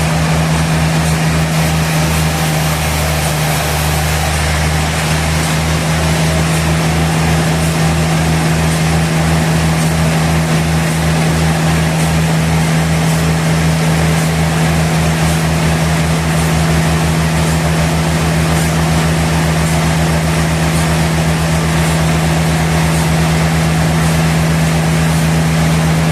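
Sawmill machinery running steadily, a constant hum over a fast even low pulsing.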